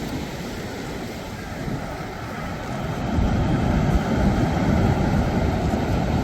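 Wind buffeting the microphone over the wash of sea waves on the shore, swelling louder about halfway through.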